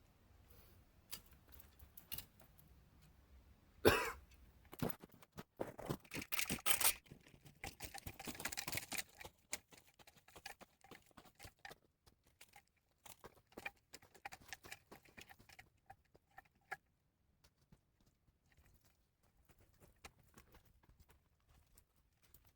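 Irregular clicks, crunches and knocks of handling and movement. The loudest is a sharp knock about four seconds in, the sounds are busiest for the next few seconds, and they then thin out to scattered faint clicks.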